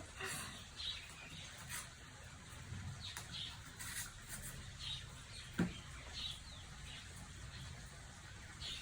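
Faint, short high bird chirps, each dropping slightly in pitch, scattered every second or two, with a single sharp click about halfway through.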